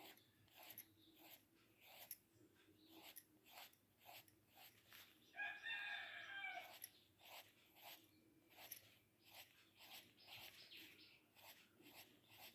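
Faint pencil strokes scratching on paper, with a domestic fowl calling once in the background about five seconds in, a pitched call lasting about a second and a half.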